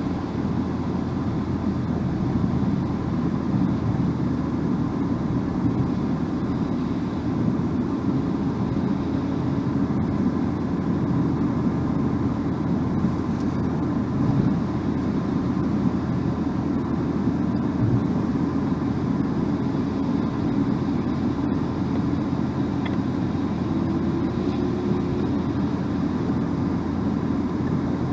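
Steady road and tyre noise with engine hum, heard inside a car's cabin while cruising. The low, even noise holds at one level without change.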